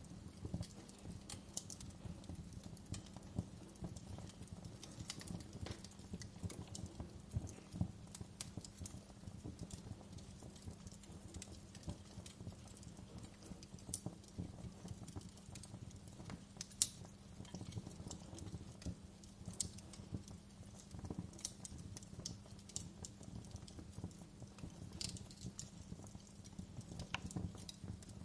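Wood fire burning in a fireplace, crackling and popping irregularly over a low steady rumble, with one sharper pop about 17 seconds in.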